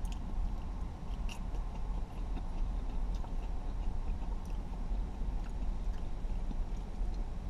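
A person chewing a crispy breaded chicken fry dipped in buffalo sauce, with small wet clicks, over a steady low hum inside the car.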